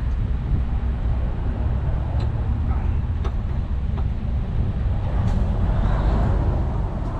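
Vehicle engine running steadily with a low rumble, a few faint clicks, and a hiss that swells about five seconds in and fades.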